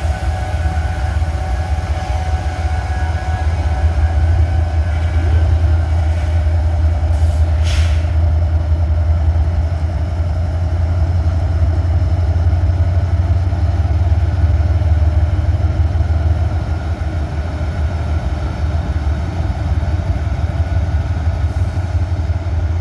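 Coal train's diesel locomotives running with a steady low rumble as the train pulls up and stops, with a short hiss about eight seconds in.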